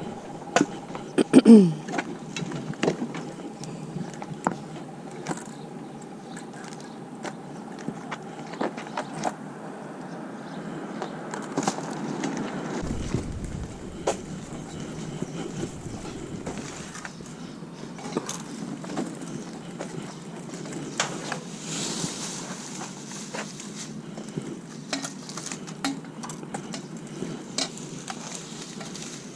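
Scattered clicks and knocks from a litter picker's jaws snapping shut and litter clattering as it is picked up, over a steady outdoor background, with the loudest knocks about a second and a half in and a brief low rumble about halfway through.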